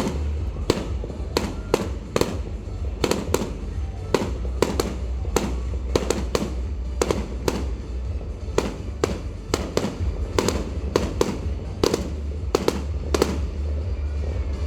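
Fireworks bursting in rapid, irregular succession, several sharp bangs each second, with music playing underneath.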